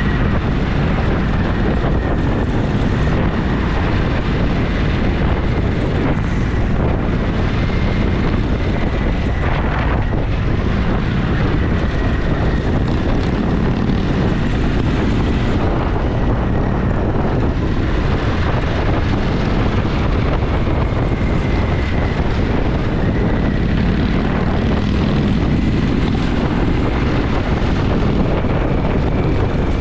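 Motorcycle engine running at a steady cruise, with wind noise on the camera's microphone.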